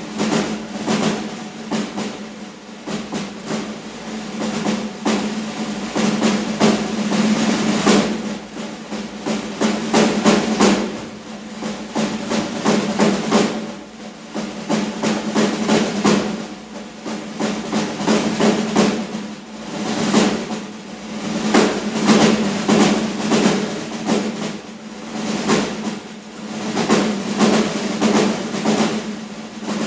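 Drum duet, snare drums played in fast, dense strokes and rolls that swell and fall back every few seconds.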